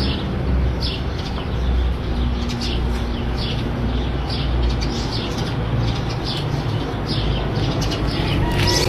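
A bird chirping over and over, short high chirps a little more often than once a second, over a steady low rumble.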